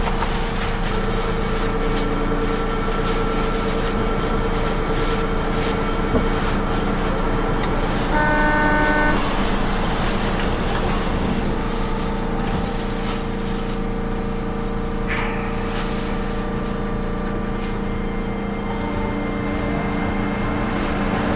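Running sound of an Osaka Metro 200 series New Tram, a rubber-tyred automated guideway train, heard from aboard as it stands at a station and then departs. Steady electrical hums run throughout, with a short horn-like tone lasting about a second, roughly eight seconds in.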